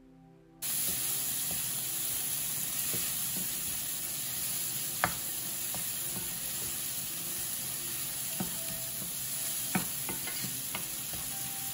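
Onion-tomato masala sizzling in a frying pan as a wooden spatula stirs it, starting about half a second in, with a few sharp knocks of the spatula against the pan.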